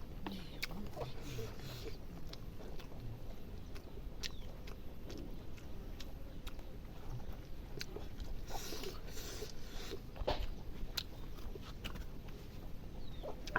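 Someone chewing and biting food up close, with scattered wet mouth clicks and occasional crunches.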